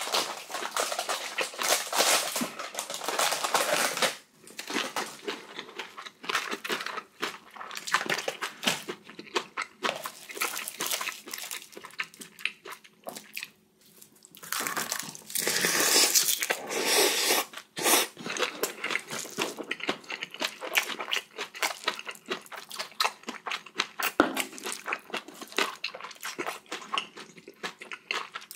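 Close-miked eating sounds: a person chewing and smacking through big spoonfuls of bibimbap, in irregular bursts with two longer, louder stretches. A single sharp click, typical of a spoon knocking the bowl, comes near the end.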